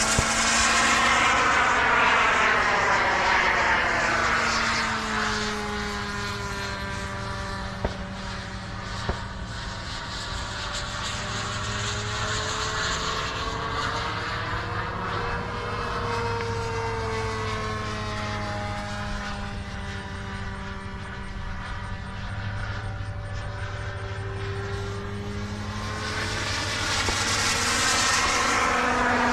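Radio-controlled model airplane flying overhead, its motor drone sliding up and down in pitch as it passes, loudest near the start and again near the end.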